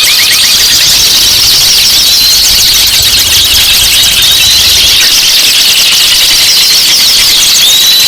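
Songbirds singing non-stop in a dense, high chorus: fast chattering trills overlaid by a short rising whistle every couple of seconds.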